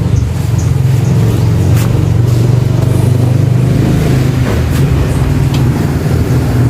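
A vehicle engine running steadily, a loud low drone, with a few faint clicks and knocks over it.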